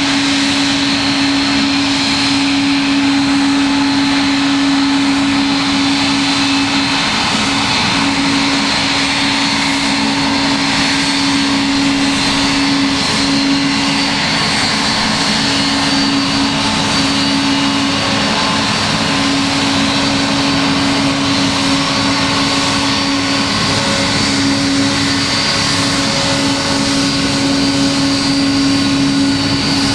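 Boeing 777-200 jet engines running steadily, with a strong steady hum and a thin high whine over the rush of the engines, holding an even level with no spool-up.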